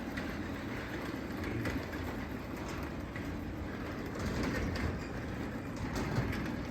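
Sectional garage door travelling on its tracks under a Craftsman 3/4 hp belt-drive opener: a steady rumble with rollers clicking and clattering, the door louder than the opener's quiet DC motor.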